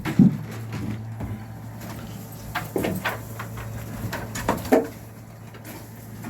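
Steady low machine hum with irregular knocks and clunks, four or five of them, the largest about three seconds in and near the middle.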